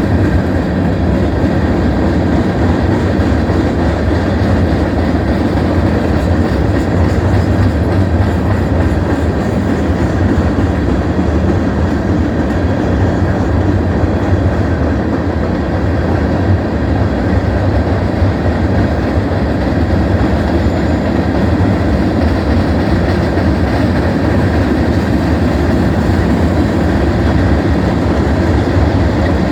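Freight train of empty gravel cars rolling past steadily, a continuous loud noise of steel wheels on the rails.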